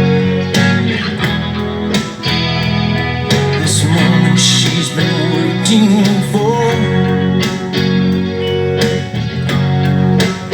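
Electric guitar played through a Zoom G5n multi-effects pedal, over a full band backing track, with a singing voice in the middle.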